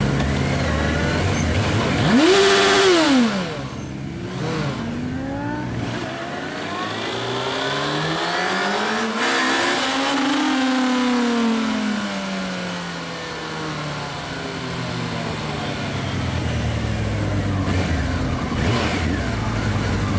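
Honda CBR900RR's inline-four engine revving, heard from on board the motorcycle. There is one sharp rev about two seconds in, then the engine pulls up and eases off through the revs several times as the bike rides along.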